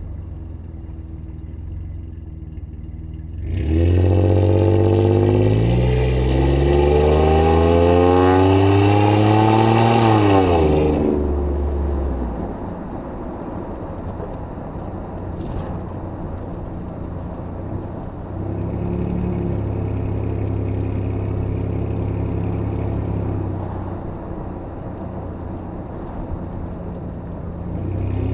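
2005 Jeep Grand Cherokee exhaust through a Thrush welded muffler. It idles, then a few seconds in the engine revs up, climbing steadily in pitch for several seconds before dropping back to idle. Later it holds a slightly raised speed for a few seconds and settles back to idle.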